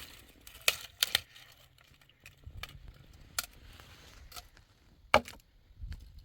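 A few sharp, scattered clicks and knocks, the loudest a pair about a second in and another near the end, over a faint low rumble.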